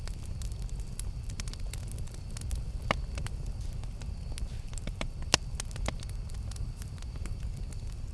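Campfire crackling: scattered sharp pops and snaps over a steady low rumble, with two louder pops about three seconds and five and a half seconds in.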